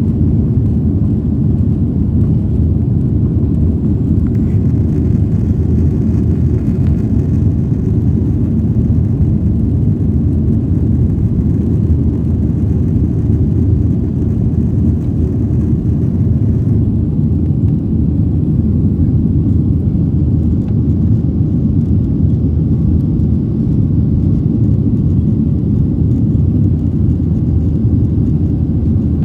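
Steady, loud low rumble of an airliner's jet engines and rushing air, heard from inside the passenger cabin.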